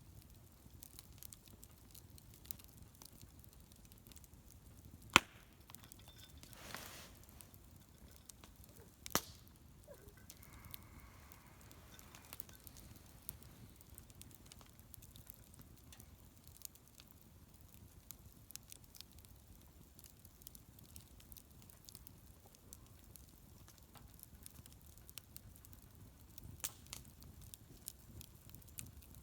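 Wood bonfire burning with faint, sparse crackling and two sharp pops, about five and nine seconds in.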